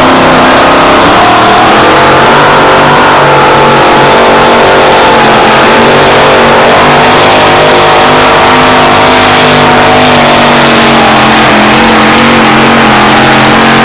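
Modified two-wheel-drive pulling truck's racing engine running at high revs under load on a pull. Loud and steady, with the pitch wavering a little.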